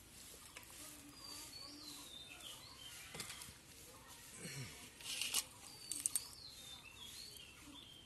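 A bird calling twice with a high, wavering call. A few short, sharp crackles come about five and six seconds in.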